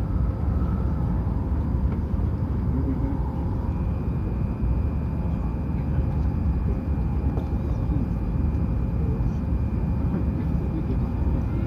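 Hokuriku Shinkansen train running at speed, a steady low rumble with a faint thin whine joining about four seconds in.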